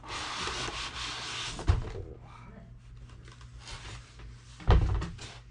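Cardboard model-plane box being opened by hand: a scraping, rustling slide of the packaging, then a knock about two seconds in and a louder thump near the end as parts of the box are set down.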